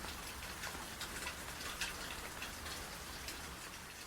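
Light rain falling on a porch: a steady hiss with many small, separate drop ticks.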